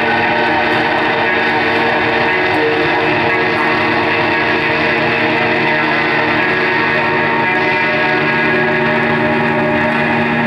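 A live band's amplified music: a loud, dense drone of sustained, overlapping guitar tones held without a clear beat.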